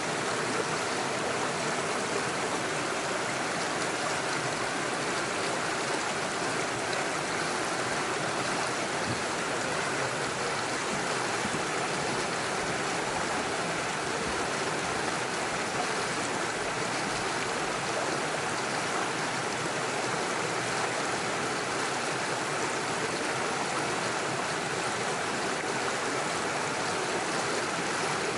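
Small rocky stream rushing steadily over stones and little waterfalls.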